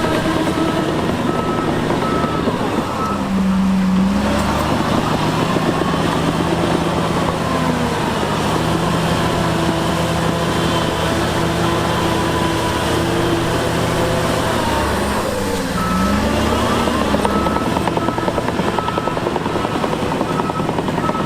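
Heavy earthmoving machine's diesel engine running steadily, with a reversing alarm beeping at an even pace near the start and again from about three-quarters of the way through. The engine pitch dips and recovers each time the beeping stops and restarts.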